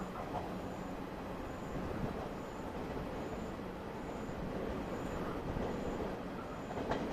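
Steady low rumble of a train at a station, with a faint high beep repeating about every 0.8 seconds.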